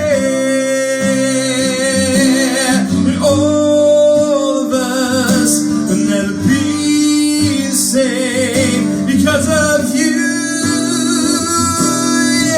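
A man singing long held notes with vibrato over guitar accompaniment, as part of a song.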